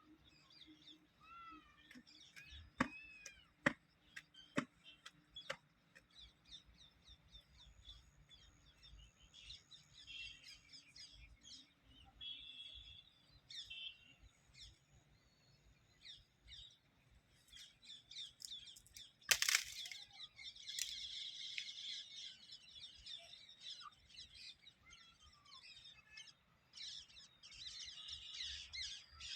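Small birds chirping and calling in short rising and falling notes, with bursts of dense high chatter. There are a few sharp clicks and one loud snap about two-thirds of the way through.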